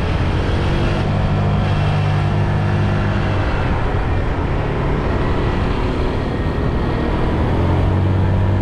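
Motorbike engine running while riding, with road and wind noise. The engine note eases off about halfway through and picks up again near the end.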